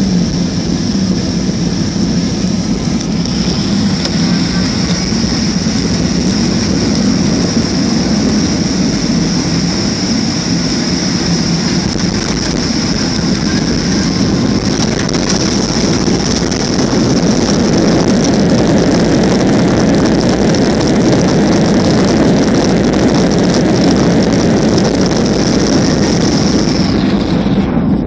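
Cabin noise of a Boeing 737-300 during its arrival: its CFM56 jet engines and the airflow give a steady rush with a high whine. The noise grows louder about two-thirds of the way through, and the whine cuts off just before the end.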